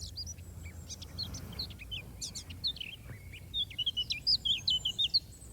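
Songbirds chirping: many short, high chirps and twitters, with a quicker run of chirps in the second half.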